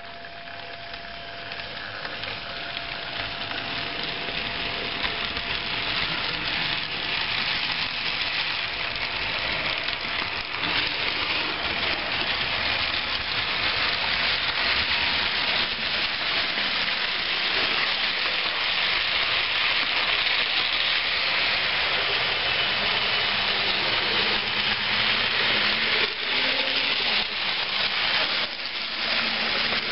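HO-scale model train running along the track, a steady hissing rolling noise that builds over the first several seconds and then holds.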